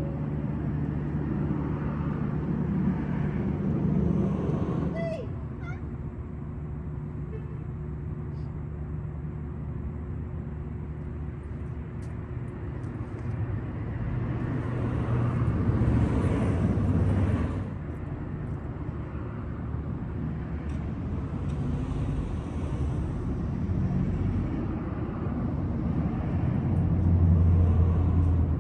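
Steady traffic hum with vehicles passing in several swells, and a brief cat meow about five seconds in.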